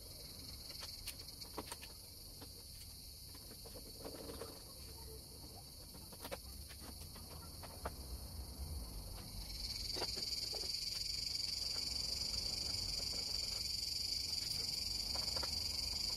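A steady, high-pitched chorus of insects, stepping up louder about ten seconds in, with scattered light clicks and taps.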